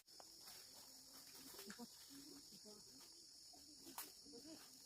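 Faint outdoor night-time-style insect chorus, a steady high chirring like crickets, with faint distant voices underneath and a single soft click about four seconds in.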